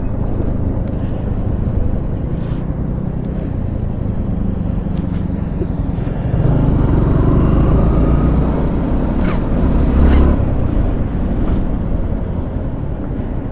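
Riding noise on a Yamaha R15 V4 motorcycle: a steady mix of engine and wind noise with traffic around. It grows louder about six seconds in, and two short, sharp hissing sounds come around nine and ten seconds in.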